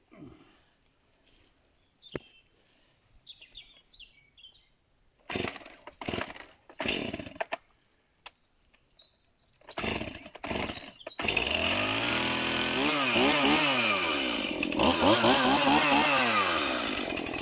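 A two-stroke chainsaw being pull-started: short sputters on several pulls, then it catches about eleven seconds in and runs, revving up and down. Small birds chirp faintly before it starts.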